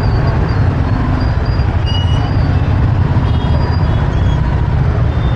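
Steady, loud low rumble of riding a motorbike in city traffic: wind buffeting the microphone, mixed with engine and road noise.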